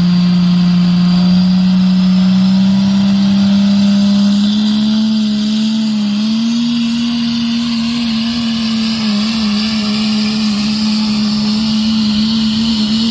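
6.7-litre Cummins diesel in a 1954 Ford pulling truck running hard under load as it pulls the sled. Its pitch climbs steadily for about six seconds, then holds high and wavers up and down.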